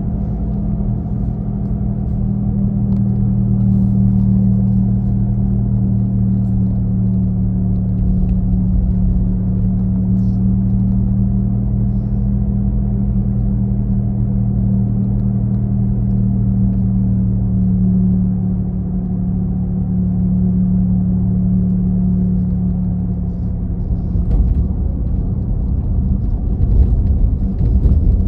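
A steady, engine-like low hum from the rear of a 2017 Nissan Leaf while it is driving, heard inside the cabin over road rumble. The hum eases off about 23 seconds in, and rougher road rumble and bumps follow near the end.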